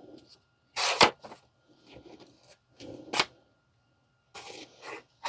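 Construction paper being cut with scissors and handled: a few short crisp snips and rustles, the loudest about a second in.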